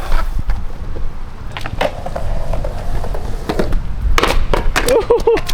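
Skateboard rolling with a steady low rumble of the wheels, with several sharp clacks of the board hitting the ground in short clusters. A brief wavering voice-like call near the end.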